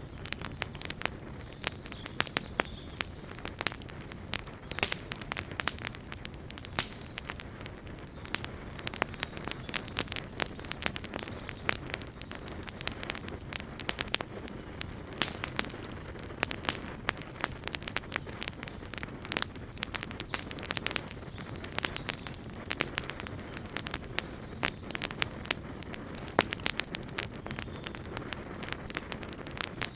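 Wood campfire burning, with many sharp, irregular crackles and pops over a steady low rumble of the flames.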